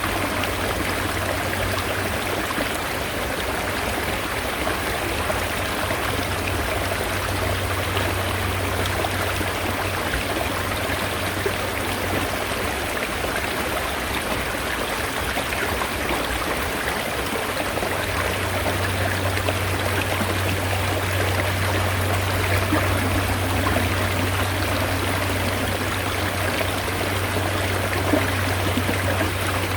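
Mountain stream water rushing and trickling steadily over rocks. A low steady hum underneath fades out about twelve seconds in and returns about six seconds later.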